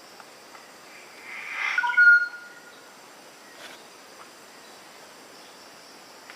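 A bird gives one call about a second long that swells from a rough, harsh note into a few short clear whistled notes, over a steady faint insect-like buzz.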